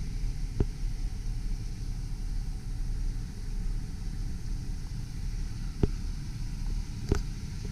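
A steady low vehicle rumble, with three short sharp clicks about half a second, six and seven seconds in, the last the loudest.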